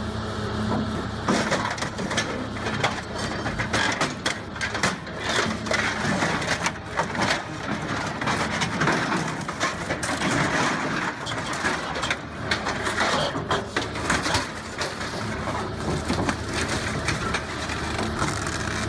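Excavator-mounted hydraulic shear cutting and crushing scrap steel: dense, irregular crunching and cracking over the steady drone of the machine's engine.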